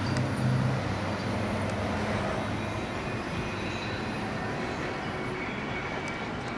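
A train running on the rails with steady rolling noise. A low hum is strongest about the first second, then the sound slowly fades as the train moves away.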